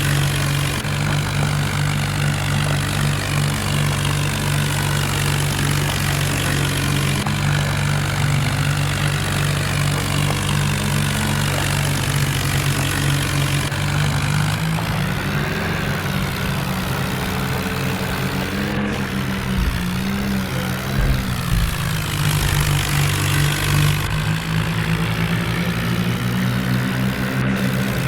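Diesel tractor engines running steadily under heavy load. Their pitch shifts and wavers about halfway through and settles again near the end.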